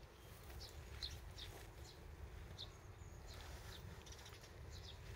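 Faint chirps of small birds, short high notes scattered every second or so, over a steady low outdoor rumble.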